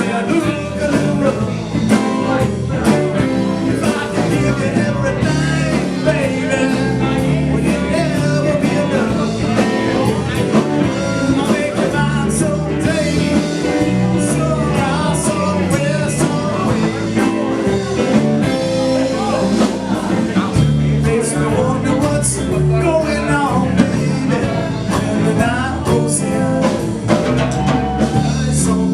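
Live blues band playing a song.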